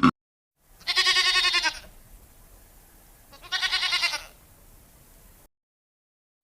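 An animal bleating twice: two quavering calls, the first about a second long and the second shorter, a couple of seconds apart.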